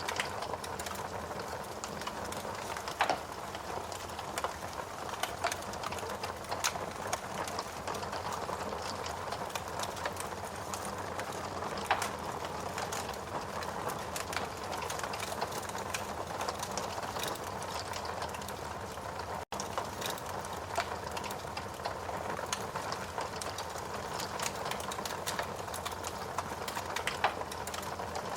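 Wood fire burning in a fireplace: a steady hiss and rustle of flames with scattered sharp crackles and pops from the burning wood, a few standing out louder. The sound drops out for a split second about two-thirds of the way through.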